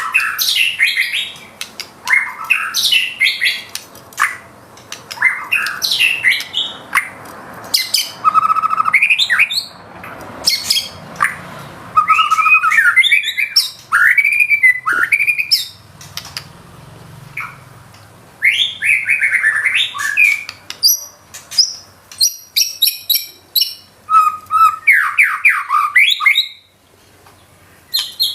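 White-rumped shama singing a loud, varied song of clear whistles, rising and falling glides and fast chattering trills, delivered in phrases with short pauses between them. The song is rich in mimicked fill phrases (isian).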